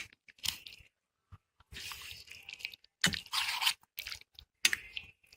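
Raw chicken pieces being mixed in a thick, wet marinade of curd, cornflour, maida and spices, squelching and scrunching in irregular stretches with a few sharp clicks.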